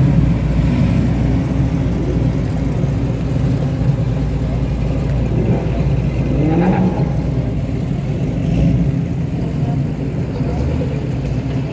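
American muscle car engines running at low revs, with a rev that rises in pitch about six seconds in.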